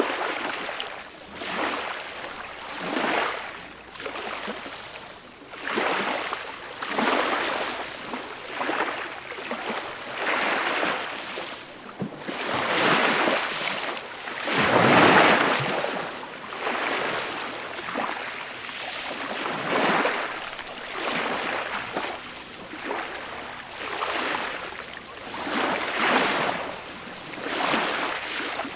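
Small, gentle waves breaking and washing up a beach, one after another every second or two, with one bigger wave washing in about halfway through.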